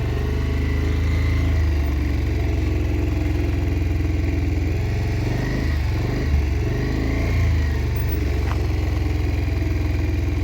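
Motorcycle engine running steadily at low speed on a dirt road, its note wavering up and down briefly about halfway through.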